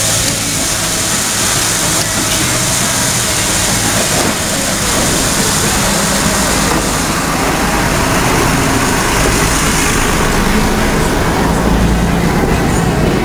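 Heritage train pulling out of the station: the locomotive working hard with a steady low rumble and a strong hiss, the sound swelling a little toward the end.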